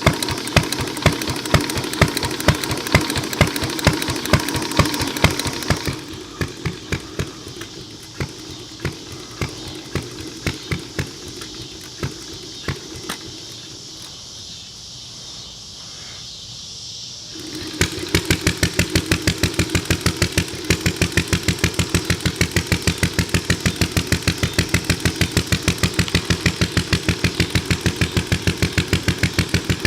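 Ideal Model V single-cylinder upright engine running, its exhaust popping in an even beat of a few strokes a second. About six seconds in it becomes quieter, with sparse, uneven pops. Just past halfway it comes back loud and regular at about three beats a second.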